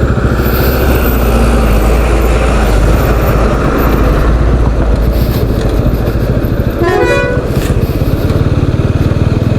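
Motorcycle running along the road, with a steady engine and road noise. A vehicle horn toots once, briefly, about seven seconds in.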